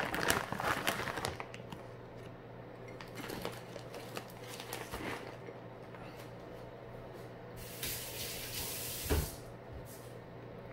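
Kitchen handling sounds: dishes and utensils clattering and clicking, over a steady low hum. About eight seconds in, a short hissing rush of about a second, like water from a tap, ends in a thump.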